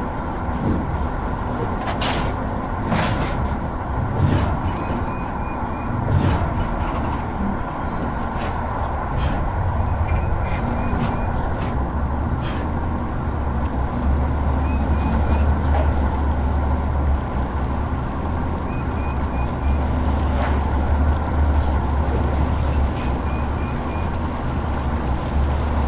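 Truck running with continuous engine and road rumble. The low rumble grows heavier about halfway through, with scattered clicks and a faint high chirp that recurs every few seconds.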